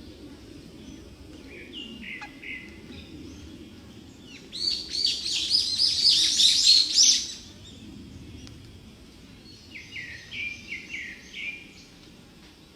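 Thrush chicks calling to be fed: a loud, rapid burst of high-pitched chirps lasting a few seconds in the middle, with a short call before it and a softer run of lower, quick notes near the end.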